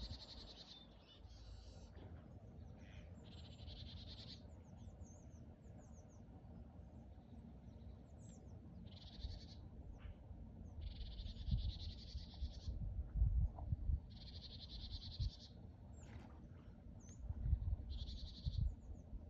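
A bird calling: about seven buzzy, high-pitched trills, each about a second long, with short high chirps in between. A low rumble runs beneath, with louder thumps about two-thirds of the way through and near the end.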